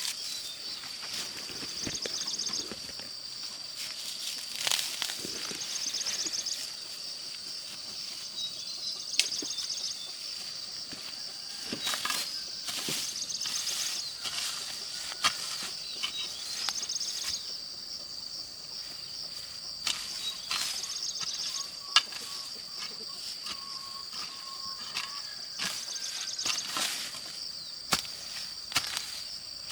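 Insects trilling in a steady high chorus, swelling in pulses every couple of seconds, with irregular sharp knocks every second or few.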